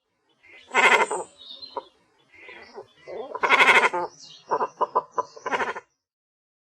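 Cormorant calling: two longer calls about two and a half seconds apart, then a quick run of short ones.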